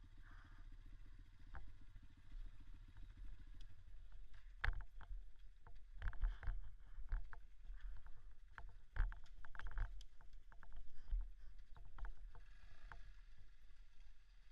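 Small dirt-bike engine running at low revs, with a series of sharp knocks and rattles from about four seconds in.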